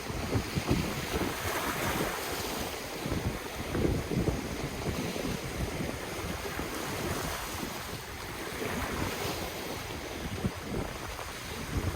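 Ocean waves breaking and washing in, swelling every few seconds, with wind buffeting the microphone in low rumbles.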